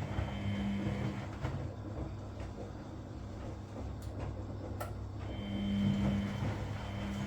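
Washing machine running a wash cycle, its drum motor humming as it tumbles. The hum stops for about four seconds, then starts again as the drum turns again, with a few light clicks during the pause.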